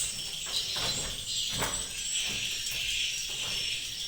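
Dense, continuous high-pitched chirping of many swiftlets, as heard inside a swiftlet house, with a few short clicks about half a second, one second and one and a half seconds in.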